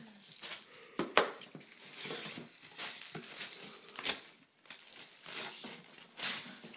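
Wrapping paper and a taped cardboard gift box crinkling, crumpling and tearing in irregular bursts as a puppy rips at them, with a few sharp crackles.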